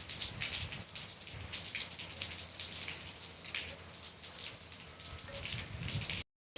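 Rain falling steadily in a desert rainstorm that is easing off, many separate drops pattering on a surface. The sound cuts off suddenly near the end.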